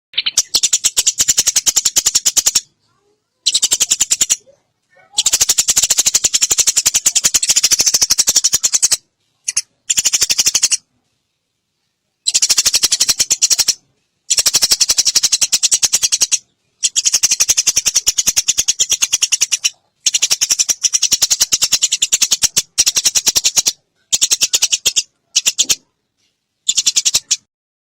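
Sparrows chattering in an aggressive fight, a very fast, dense stream of high, harsh chirps. It comes in bursts of one to four seconds that start and stop abruptly.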